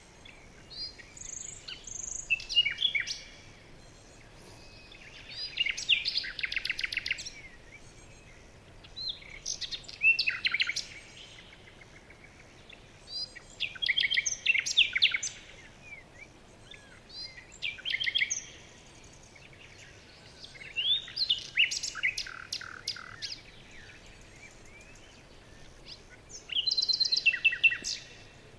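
Songbirds singing in a forest: about seven short phrases of rapid trills and chirps, coming every three to four seconds, over a faint steady background hiss.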